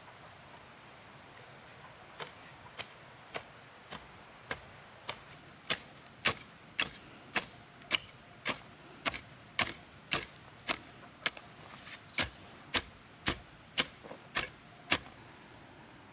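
A hand tool striking over and over in a steady rhythm, about two sharp chopping strokes a second. The strokes start faint, grow louder a few seconds in, and stop shortly before the end.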